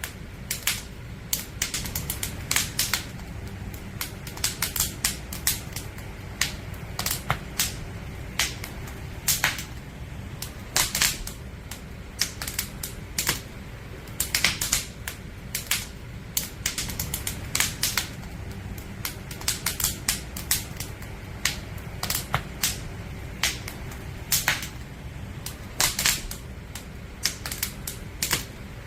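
Burning firewood crackling: irregular sharp pops and snaps, several a second, over a low steady rumble of the fire.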